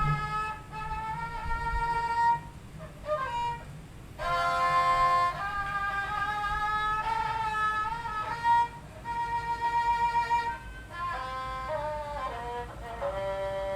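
Bowed fiddle playing a Thai classical overture (homrong): one melody line of held notes that slide from pitch to pitch, with a few short breaks between phrases.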